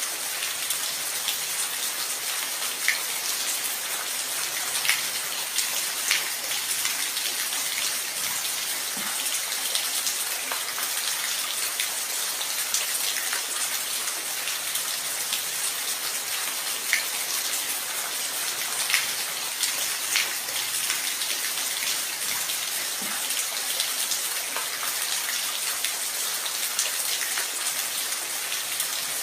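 Steady rain falling, with a continuous hiss and many separate drops pattering and ticking on a surface.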